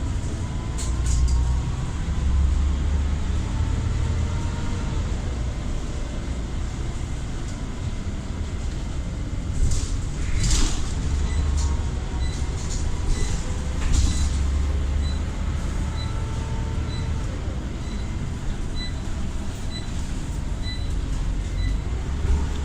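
Scania Omnicity single-decker bus on the move, its ZF automatic gearbox whining, rising and falling in pitch over a heavy engine rumble. A few rattles come around the middle, and a regular ticking runs through the second half.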